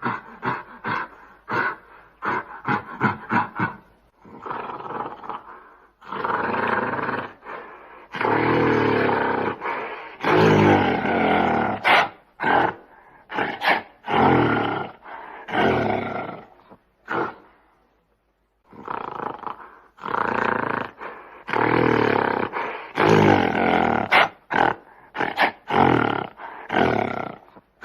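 A large animal roaring and growling, in a fast string of short calls, then long drawn-out roars, then another run of calls after a short pause.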